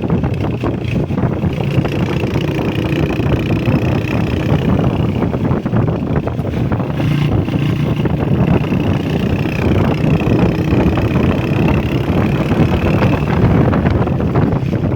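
Honda CG125 motorcycle's single-cylinder engine running steadily while riding, with wind buffeting the microphone.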